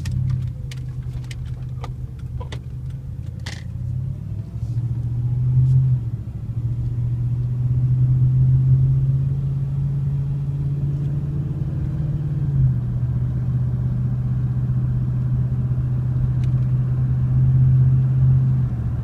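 Ford F-150's 5.4 L V8 exhaust through a Flowmaster Super 44 muffler, heard inside the cab as a low rumbling drone while the truck accelerates up to highway speed. The drone builds, breaks briefly about six and about thirteen seconds in as the transmission upshifts, and is joined by a few sharp clicks in the first few seconds.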